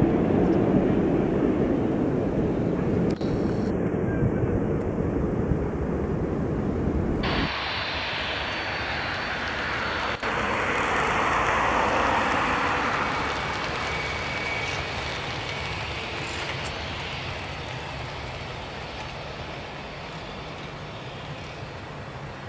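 A Boeing 737-800's CFM56 jet engines rumbling loudly on landing, cut off abruptly about seven seconds in. Then the jet engines of an Airbus A320 swelling as it passes on its takeoff run and slowly fading away.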